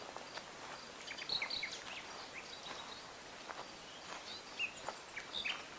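Small birds chirping in short, high notes, scattered and in small bunches, over a faint outdoor hiss.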